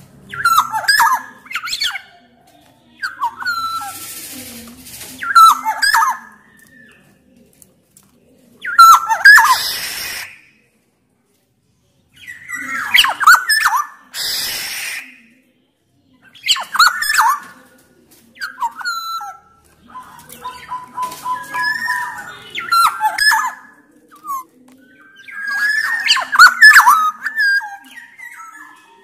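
Black-naped oriole singing loud, fluty whistled phrases every couple of seconds. Some phrases are mixed with harsh, rasping calls.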